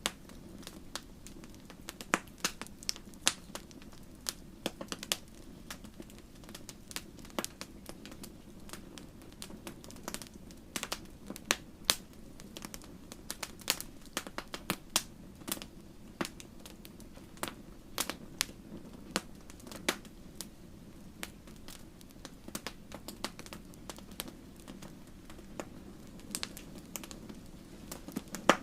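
Wood fire in a fireplace crackling: irregular sharp pops and snaps, several a second, over a steady low rush of flame.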